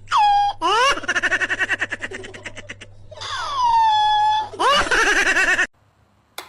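A high-pitched voice giggling in rapid bursts, with long squeals that drop in pitch and then hold steady; it cuts off suddenly near the end.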